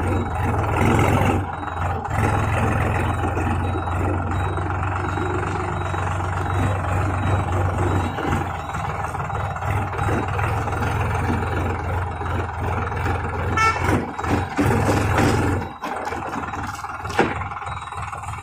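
Solis Yanmar 4215 tractor's three-cylinder diesel engine running steadily during a trial run. About three quarters of the way through, the engine sound drops away, and a sharp knock follows shortly after.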